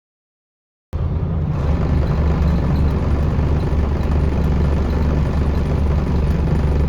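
Scania L94UB bus's nine-litre five-cylinder diesel engine running with a steady low drone, cutting in suddenly about a second in.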